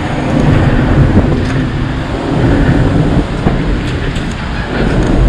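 Steady low rumble of a light rail train running, heard from inside the passenger car, with a few faint rattles and ticks.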